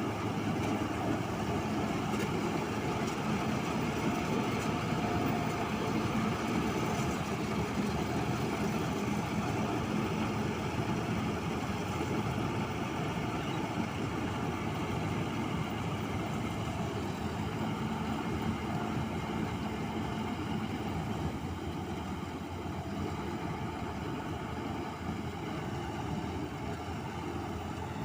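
Diesel engine of a John Deere 5310 tractor with its harvester attachment running steadily, a little quieter from about two-thirds of the way through.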